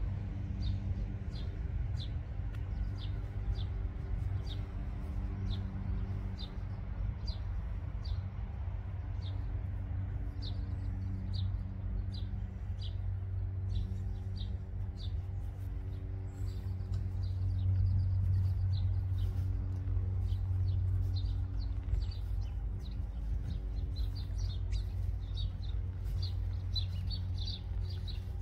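A small bird chirping over and over, short high chirps about once or twice a second, coming faster near the end. Underneath runs a steady low rumble with a faint hum.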